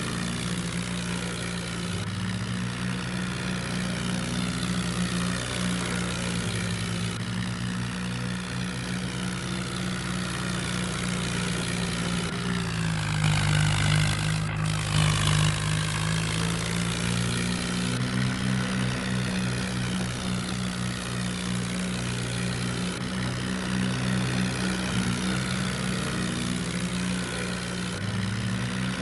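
Swaraj 963 tractor's diesel engine running hard, a steady heavy drone. About halfway through it gets louder and sweeps down in pitch as it passes close by.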